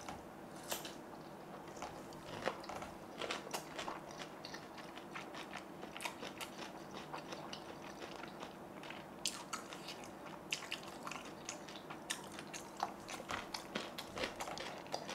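A person eating: close-miked chewing with irregular crisp crunches and mouth clicks, over a faint steady hum.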